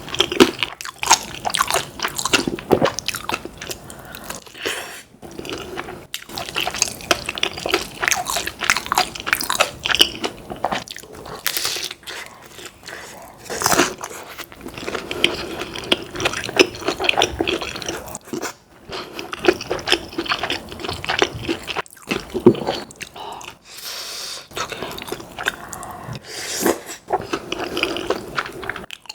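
Close-miked eating: crunching bites and wet, sticky chewing, with many short mouth clicks and smacks in quick succession and a few brief pauses.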